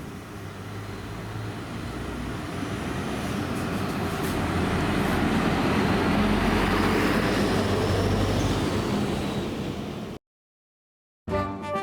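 A bus passing close by, its engine hum and tyre noise growing louder to a peak about two-thirds of the way in. The sound cuts off abruptly near the end.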